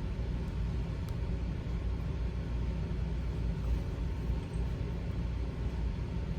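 Steady low rumble of background noise, with a faint click about a second in.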